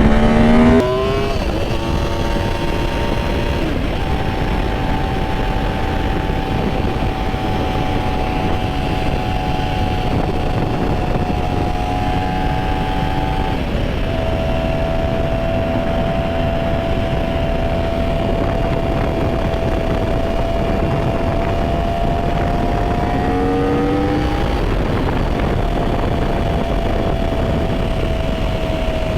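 Yamaha R1 sport bike's inline-four engine on the move. Revs climb and drop at an upshift about a second in, then the engine runs at a fairly steady pitch, with another climb and upshift near the end. Heavy wind noise rushes over the microphone behind it.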